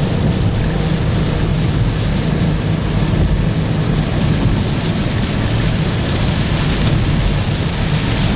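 Steady, loud rush of heavy storm rain and wind on a moving car, with a deep rumble underneath.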